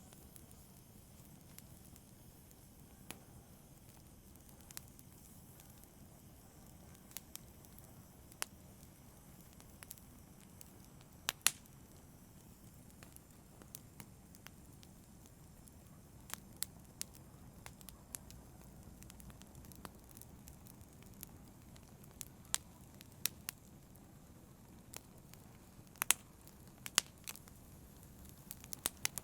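Wood fire burning with a steady low rush and scattered sharp crackles and pops. The loudest pop comes about a third of the way in, and a cluster of pops comes near the end.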